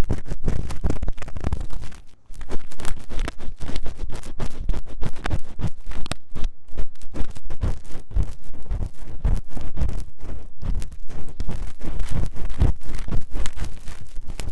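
Ear-cleaning tool scratching fast and roughly inside the silicone ear of a 3Dio binaural microphone, a dense run of quick strokes with a short break about two seconds in.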